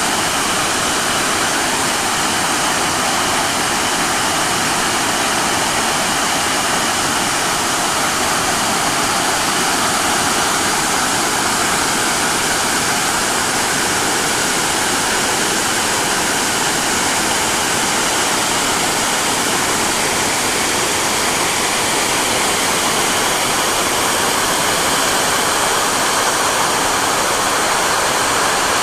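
Apsley Falls in flood flow: a loud, steady, unbroken rush of falling water.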